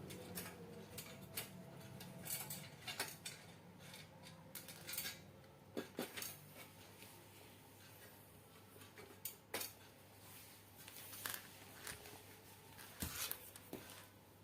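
Scattered sharp clicks, taps and clinks of small metal parts and tools being handled during assembly work, about a dozen spread irregularly, over a low steady hum.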